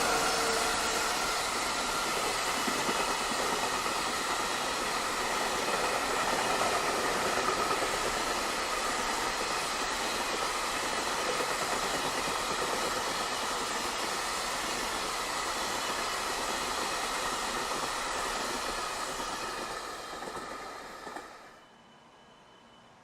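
A train running past on the line: a steady rumble of wheels on rail with several steady high tones over it. It fades slightly, then cuts off suddenly about 21 seconds in, leaving a faint hiss.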